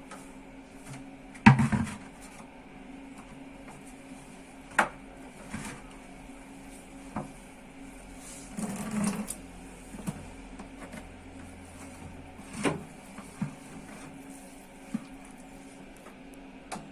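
IFB front-loading washing machine running with a steady low motor hum, broken by irregular knocks and clicks, the loudest about a second and a half in and a short rattle near the middle.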